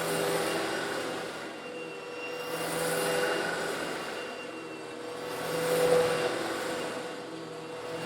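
Old Eureka vacuum cleaner running with a steady motor hum, sucking up small coarse stone granules. The rush of air and grit swells and fades about every three seconds.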